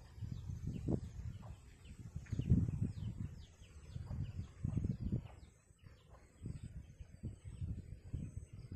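Small birds calling in a run of short, quick falling chirps, several a second, over an irregular low rumbling of wind or handling noise on the phone's microphone, which is the loudest sound.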